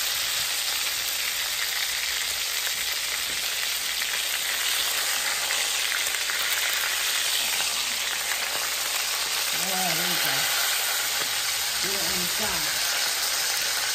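Cornish hens frying in bubbling butter in an enameled cast-iron Dutch oven, a steady sizzle as the skin browns.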